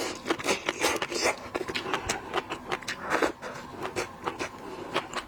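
Close-miked eating of shellfish: quick, irregular crackles and clicks of shells being cracked and peeled, mixed with wet chewing.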